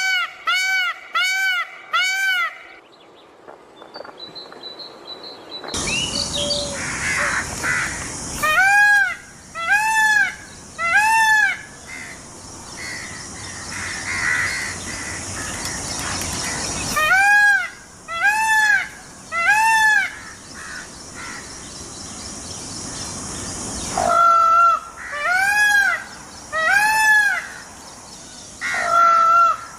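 A peacock calling: loud, ringing calls that rise and fall in pitch, given in bouts of three or more about a second apart, with a quick run of calls at the start and another near the end.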